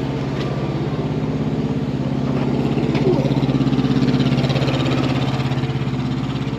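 A V8 car engine running with a steady pulsing note, swelling about two seconds in and easing off again toward the end.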